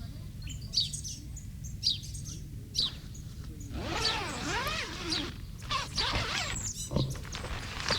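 Birds chirping outdoors: short, regularly repeated high chirps, giving way about four seconds in to a denser tangle of gliding calls, over a steady low rumble of background noise.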